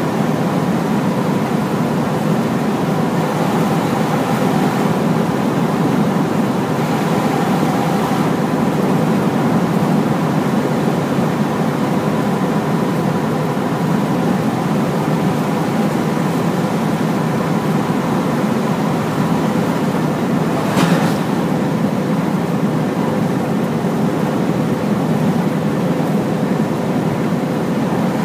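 Hino large truck driving at a steady pace: a steady engine drone and road noise with an even hum, and one short knock about three-quarters of the way through.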